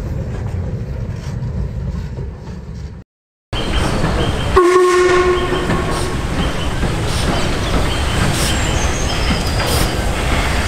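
Rail traffic running with a steady rumble. After a cut, a locomotive sounds one short blast on a single pitch lasting about a second, over continued running noise with a few sharp clicks.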